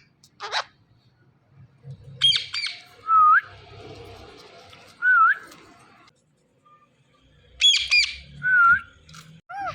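Indian ringneck parrot squawking in short, sharp bursts: once near the start, a pair about two seconds in, and a cluster around eight seconds. Between them come a few short whistled notes that rise in pitch at the end.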